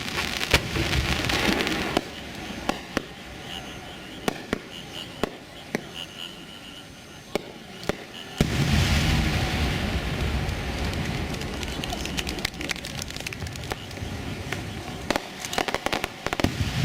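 Fireworks shells exploding: scattered sharp bangs, then a big boom about eight seconds in with a rolling rumble that dies away over several seconds, and a quick cluster of bangs near the end.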